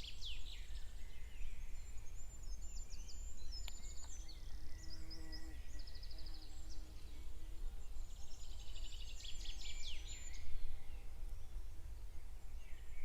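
Wild songbirds singing outdoors: repeated high chirping and trilled phrases, with one bout near the start and a fuller one about two-thirds of the way in, over a steady low rumble.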